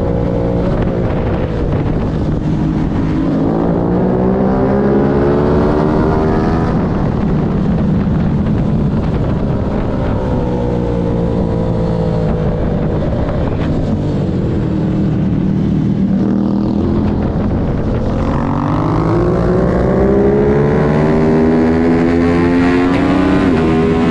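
Onboard sound of an Aprilia racing motorcycle's engine at race pace, its revs climbing hard through the gears and dropping back under braking and downshifts, with a long fall in pitch midway and a fresh climb near the end, over wind rush.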